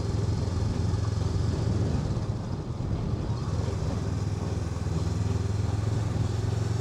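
Honda NX500's parallel-twin engine running steadily at low revs, a constant low note with no revving.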